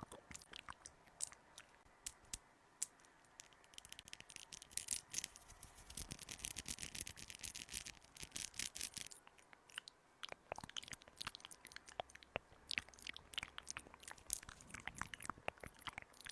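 Close-miked ASMR trigger sounds: crisp clicks and crackles, with a denser stretch of scratchy rubbing about four to nine seconds in.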